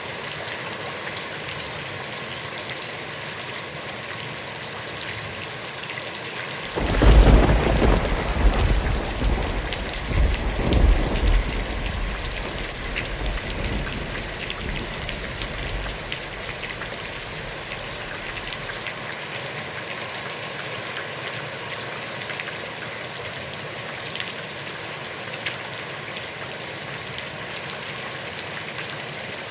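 Heavy rain falling steadily on a pond. About a quarter of the way through, a roll of thunder breaks in with a deep rumble, swells twice, and dies away over about nine seconds.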